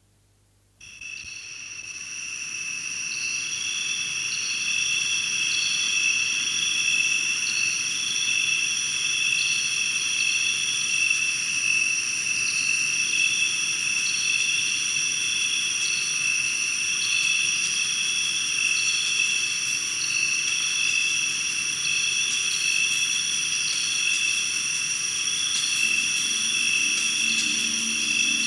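Insect chorus of steady, high-pitched trilling, fading in about a second in and growing over the next few seconds. Low musical tones begin to come in near the end.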